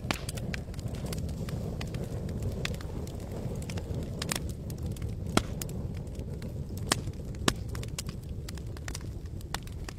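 Wood campfire crackling: irregular sharp pops and snaps, the loudest about five and a half and seven and a half seconds in, over a steady low rumble.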